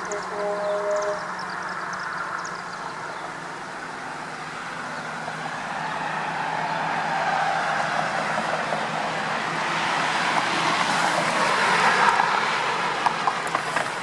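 Vintage diesel semi trucks running in a convoy, with a short two-tone horn blast about a second in. Engine and road noise swell louder toward the end.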